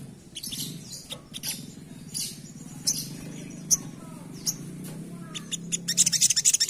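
A sunbird calling in short, sharp, high chirps, scattered through the middle and turning into a dense rapid chatter near the end. A low steady hum lies under it for most of the time.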